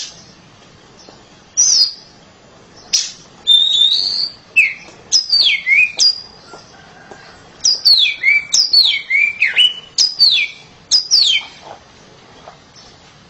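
Oriental magpie-robin (kacer) singing loudly: bursts of clear whistled notes, many sliding down in pitch, in quick runs separated by short pauses, stopping shortly before the end.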